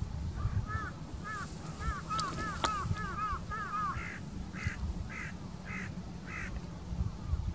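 Birds calling: a quick run of short arched notes, then five separate harsher calls, about two a second, over a low steady rumble.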